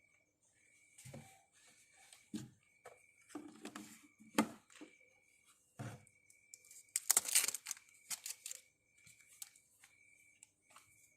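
Scattered knocks, clicks and rustling, like parts or packaging being handled, loudest in a rustling stretch about seven seconds in, over a faint, steady, high chirp that breaks off and returns.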